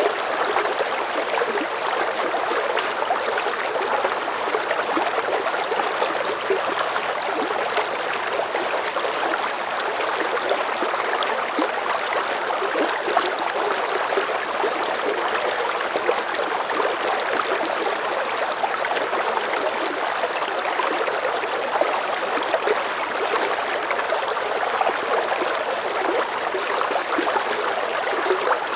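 Steady babbling of running water, like a small stream, continuous and unchanging in level.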